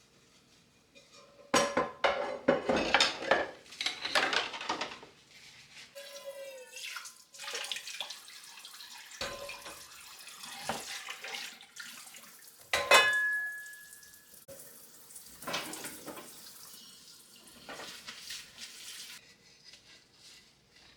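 Kitchen tap running into a sink while dishes are handled and clatter. A sharp clink just under two-thirds of the way through rings on briefly.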